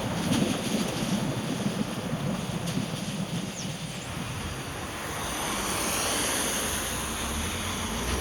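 Steady rushing hiss of rain and tyres on a wet road, swelling for a couple of seconds past the middle, with a low rumble building near the end.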